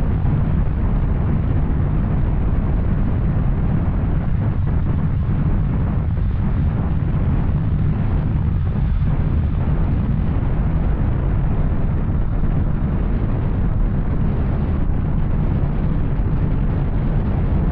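Yamaha Tracer 900's three-cylinder engine through an Arrow exhaust, running steadily while the motorcycle is ridden, a dense low rumble at an even level.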